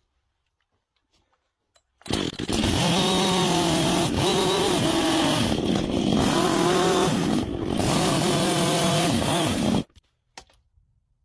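A chainsaw starts cutting into a log about two seconds in and runs for about eight seconds. Its engine pitch dips and rises as the bar takes load, then it stops abruptly, making a tapered cut in a log truss chord.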